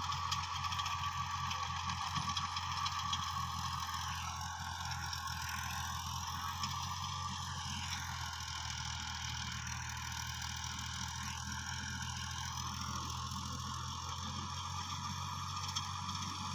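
Fiat 480 tractor's three-cylinder diesel running steadily under load while driving a 54-cut rotavator through wet soil. A steady low engine hum, with higher whining tones that waver up and down in pitch.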